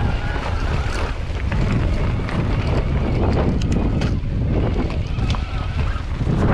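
Strong wind buffeting the microphone, a heavy steady rumble, with scattered sharp clicks over it.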